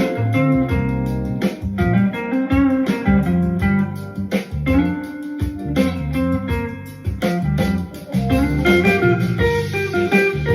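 Funky instrumental groove: electric guitar playing melodic lines over a bass line and a steady drum beat.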